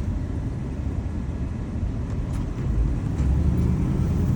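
2015 Ford F350's 6.2-litre gas V8 engine and road noise while the truck is driven; the engine note gets louder about three seconds in.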